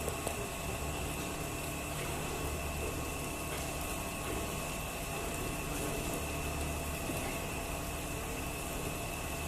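Steady machinery running: a continuous low hum with a few steady whining tones over a noisy wash, unchanging throughout.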